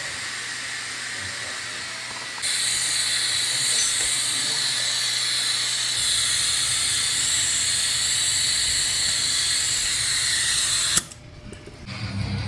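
Steady hiss of compressed air running through an air-powered vacuum brake bleeder, drawing fluid through the brake line. It gets louder about two seconds in and cuts off suddenly near the end.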